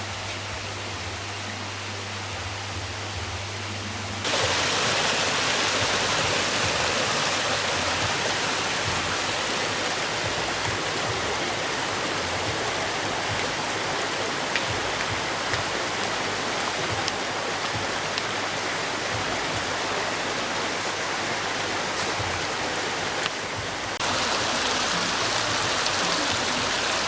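Running water of a spring-fed stream, a steady rushing. There is a low hum under it for the first few seconds. The water jumps abruptly louder about four seconds in, dips briefly near the end, then comes back up.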